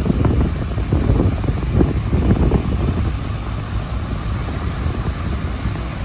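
Wind buffeting the microphone over the steady roar of high surf raised by a typhoon; the gusts are choppier in the first half and ease off toward the end.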